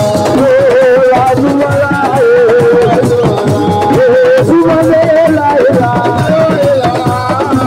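Assiko (siko) band playing: hand drums and percussion beating under a lead singer's voice, sung with a wavering vibrato.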